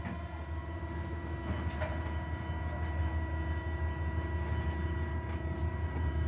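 A heavy engine running steadily: a continuous low rumble with a faint, steady whine above it.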